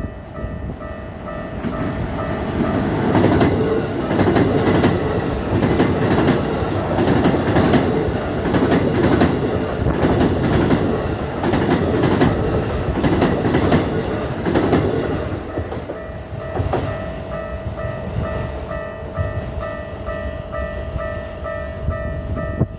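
Electric train on the Keikyu Main Line passing over a Japanese level crossing, its wheels clattering rhythmically over the rail joints for about fourteen seconds from about two seconds in. The crossing's electronic warning bell rings a steady repeating two-tone chime throughout. It is heard clearly before the train arrives and again once it has gone.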